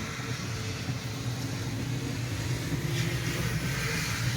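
Vehicle running on the road, heard from inside the cab: a steady low engine and road drone under a hiss that grows a little louder about three seconds in.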